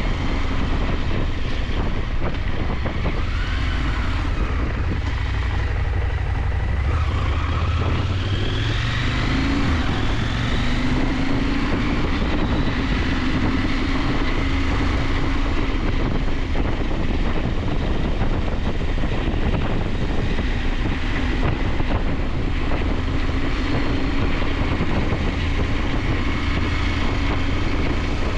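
KTM 890 Adventure's parallel-twin engine pulling under way, over steady wind rush on the microphone. The engine note climbs about eight seconds in, then holds steady.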